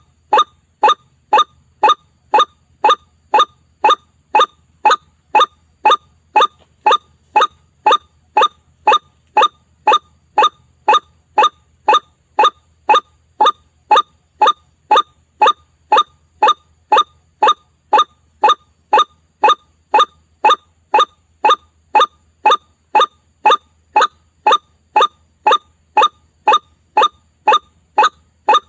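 White-breasted waterhen (ruak-ruak) call recording used as a bird lure, playing in a loop: a short, slightly falling note repeated monotonously about twice a second without a break.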